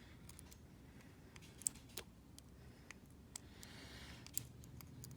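Faint, irregular light metal clicks of a lock pick working the pins of a small pin tumbler cabinet lock as it is picked again.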